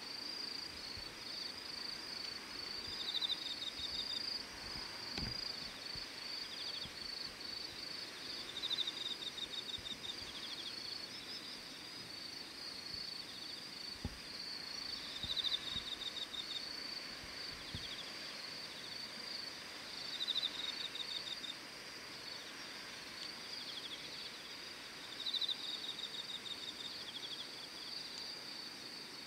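Evening insects: one keeps up a continuous high trill while another gives short, rapidly pulsed chirps every few seconds.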